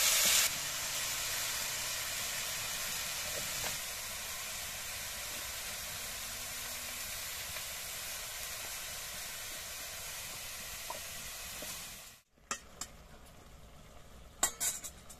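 Vegetables sizzling in a hot wok as they are stir-fried and stirred with a spatula, a steady frying hiss. After about twelve seconds it cuts off abruptly, and then all is quieter, with a few sharp clicks near the end.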